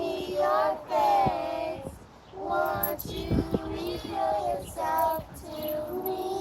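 Children singing a song in short phrases, with a long held note starting near the end.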